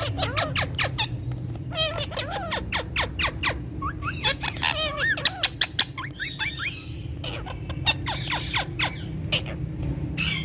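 Ringneck parakeets chattering: rapid sharp chirps and clicks mixed with short squawky calls that bend up and down in pitch, over a steady low background hum.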